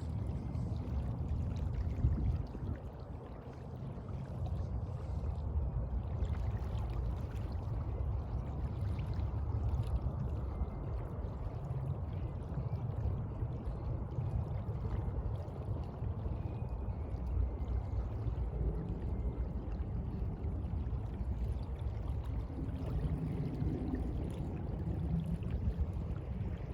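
Sea water washing and lapping, a continuous rushing noise heaviest in the low end.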